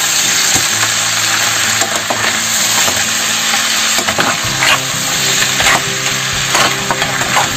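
Blue crab pieces sizzling steadily as they fry in browned butter in a hot pan, with a few sharp clicks.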